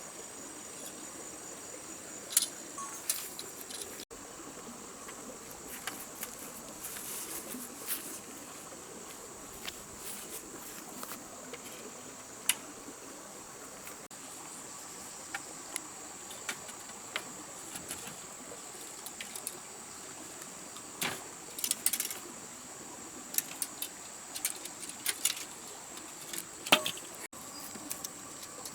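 Steady high-pitched drone of rainforest insects, with scattered sharp clicks and knocks from nearby handling or work, the loudest near the end.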